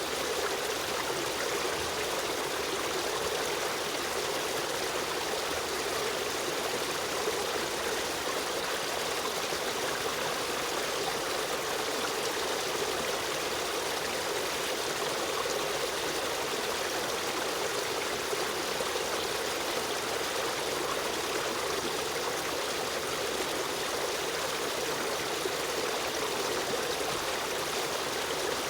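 Running water of a river stream, a steady rushing with trickling that does not change.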